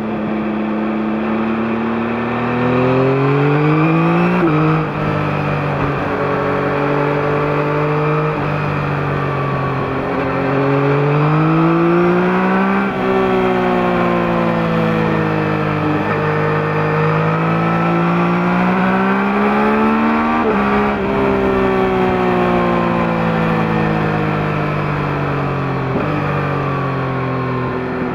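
2021 Yamaha MT-09's 890 cc three-cylinder CP3 engine on its stock exhaust, pulling up through the revs with a sudden drop in pitch at each upshift, then easing off and rising again several times. Heard from a microphone under the seat.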